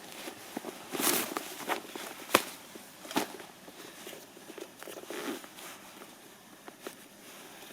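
Irregular knocks, clicks and short rustles of something being handled or moved about, with one sharp click a little over two seconds in as the loudest.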